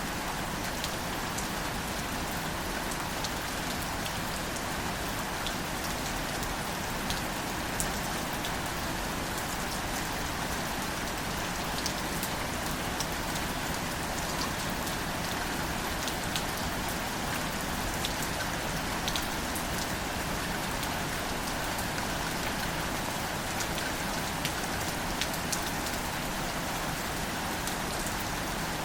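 Steady gentle rain falling on wildflowers and leaves, an even hiss with scattered individual drops ticking close by.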